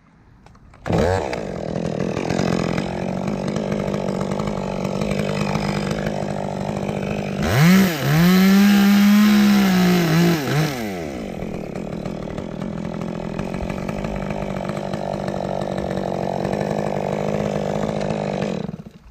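Chainsaw running, revved to full throttle for about three seconds in the middle, as in a cut into a dead limb, then back to a steady lower speed until it stops near the end.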